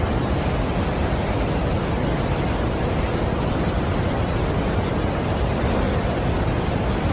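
Large waterfall: a steady, even rush of falling water, heaviest in the low end, with no breaks or changes.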